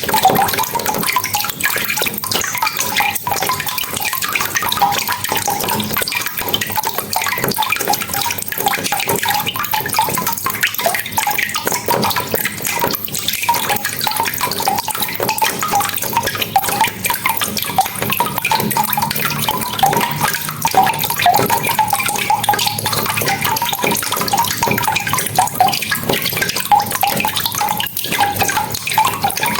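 Steady rain falling, with a dense mix of patter and drips splashing.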